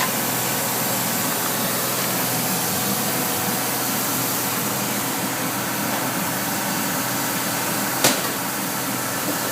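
Steady mechanical hum and hiss, with a sharp knock about eight seconds in.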